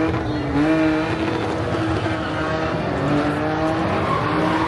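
A car engine held at high revs during a burnout, its pitch wavering up and down over a steady haze of tyre noise.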